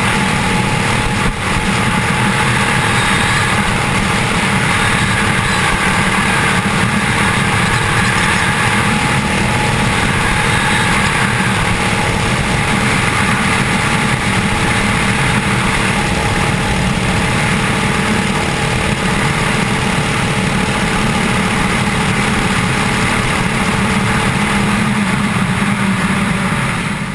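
A mini bike's 6.5 hp Honda-clone single-cylinder engine, governor bypassed and breathing through a custom exhaust, runs under load as the bike is ridden. The noise stays at a steady level without a break.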